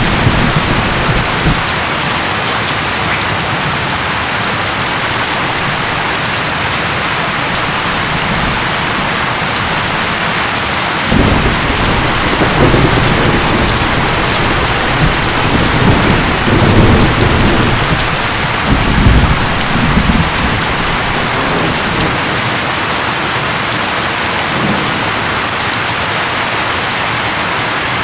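Steady rain hissing, with thunder rumbling low and rolling in several swells for about ten seconds midway.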